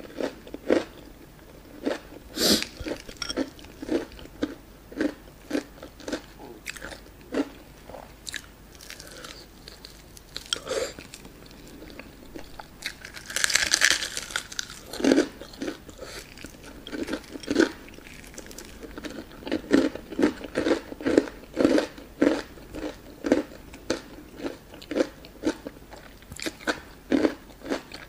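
Close-miked chewing of a crispy breaded fried chicken drumstick, a steady run of wet chews with one loud crunchy bite about halfway through.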